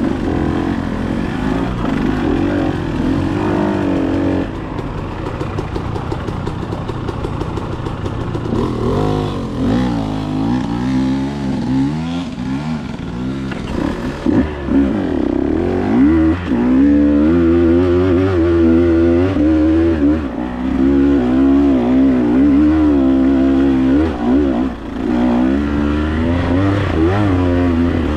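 Dirt bike engine under way, its revs rising and falling over and over as the throttle opens and closes.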